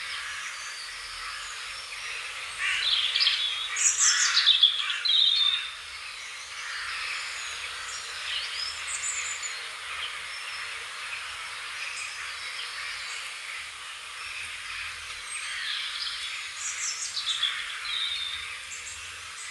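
A songbird singing two similar bursts of quick, warbling chirps, about three seconds in and again near the end, with fainter calls between them, over a steady hiss.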